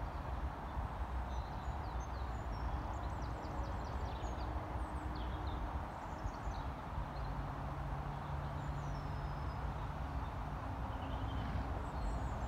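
Small birds chirping and twittering in short scattered calls over a steady low outdoor rumble.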